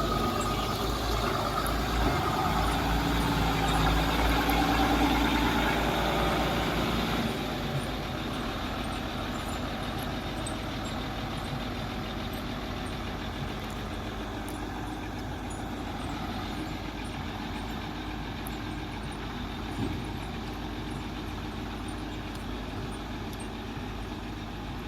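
Heavy diesel engine of a truck or excavator running: a low rumble that is louder for the first seven seconds or so, then settles to a steadier, quieter drone.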